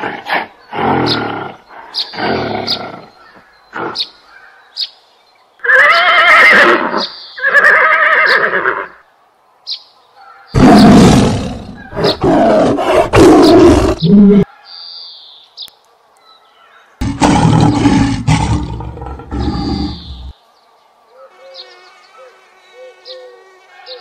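A run of animal calls: short calls at first, then two long pitched calls, then a lion roaring in two loud bouts through the middle. A soft repeated chirping follows near the end.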